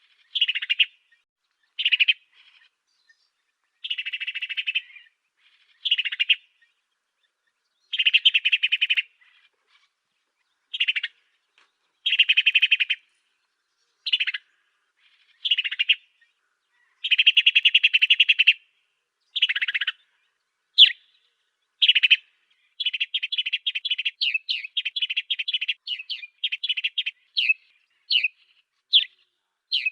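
African sparrow song in a bird-tutor (masteran) recording: separate sharp chirps and short buzzy trills of about a second each with silent gaps between them, then a fast run of many chirps near the end.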